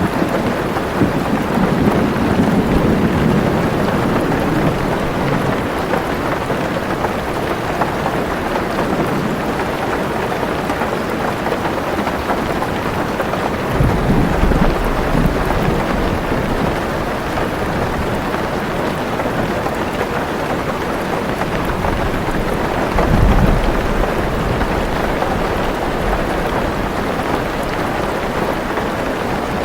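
Heavy rain drumming steadily on a car roof, with deep thunder rumbling three times: early on, about halfway through, and loudest about three quarters of the way in.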